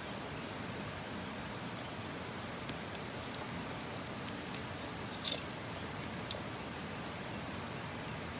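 Wood campfire crackling: a steady low hiss with scattered sharp pops and snaps, the loudest a quick cluster about five seconds in.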